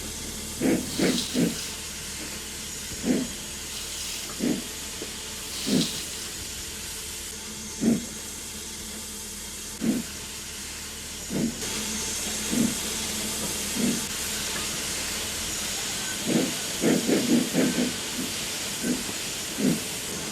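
Steam locomotive exhaust beats over a steady hiss of steam, irregular and widely spaced. Near the end comes a quick flurry of chuffs as the driving wheels slip on greasy rails while the engine pulls loaded wagons.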